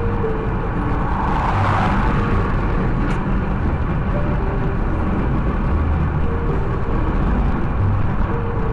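Steady road and engine noise of a car driving, with a brief swell of noise about a second and a half in and no crash impact.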